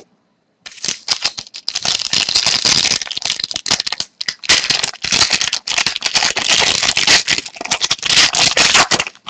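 Crinkling of a foil trading card pack wrapper being torn open, with the hockey cards inside handled and shuffled: a dense, crackly rattle that starts about a second in and briefly dips near four seconds.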